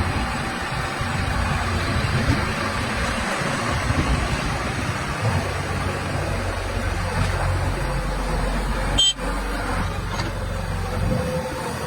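Heavy vehicle engines running amid steady traffic noise, with a brief drop in the sound about nine seconds in.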